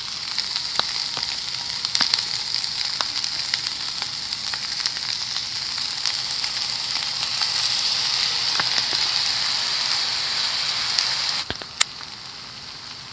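Fried noodles with sweet soy sauce sizzling in a hot pan, a steady sizzle with scattered light clicks. Near the end the sizzle drops off sharply, and a single sharp click follows.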